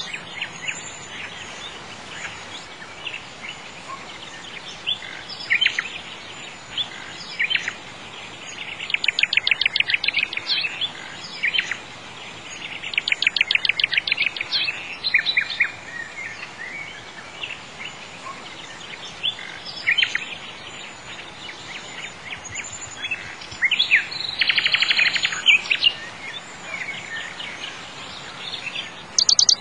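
Birdsong from several birds: scattered high chirps and a few rapid trills of quick repeated notes, over a steady faint hiss.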